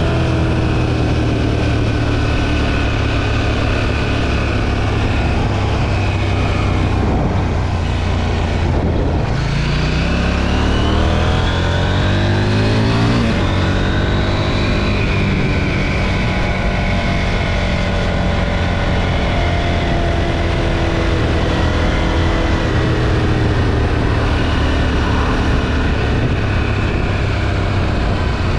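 KTM 790 Duke's 799 cc parallel-twin engine, stock exhaust, running under way. About eight seconds in the revs drop briefly, then climb steadily for a few seconds as the bike accelerates, before settling back to a steady cruise.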